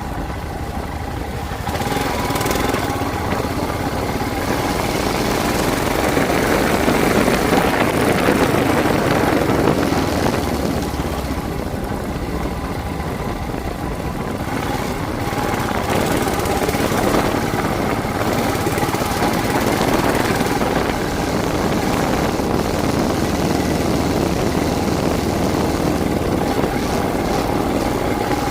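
Motorcycle engine running steadily while riding, with wind noise on the microphone rising and falling.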